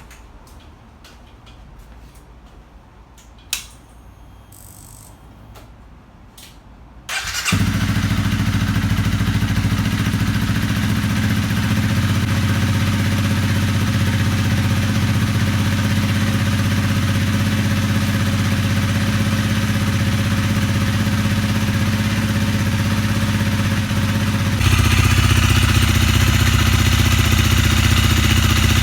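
Honda CRF250L single-cylinder engine starting after a top-end rebuild for a broken piston ring, then idling steadily. Before the start there are a few light clicks. Near the end the engine sound changes abruptly and gets louder.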